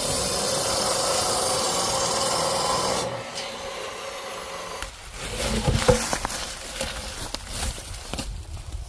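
A steady machine noise with a held hum stops abruptly about three seconds in. Scattered knocks and scraping follow, consistent with firewood being handled.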